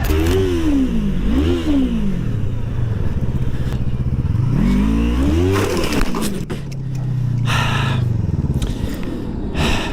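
Motorcycle engine revved in three rising-and-falling blips, then holding a steady note for a couple of seconds before dropping away. Short scraping, clattering noises come over it near the end.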